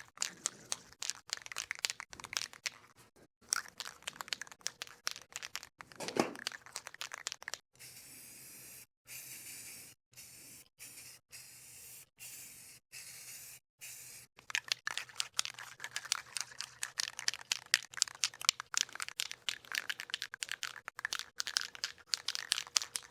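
Heirloom white paint being put on a camper's compartment door: dense, rapid scratchy crackling as it is worked over the surface. A stretch of hissing, broken by short pauses, comes in the middle.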